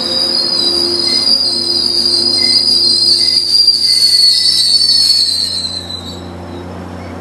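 Steel wheels of a departing Metrolink commuter train squealing, a loud high steady screech that fades out about six seconds in, over a low steady hum.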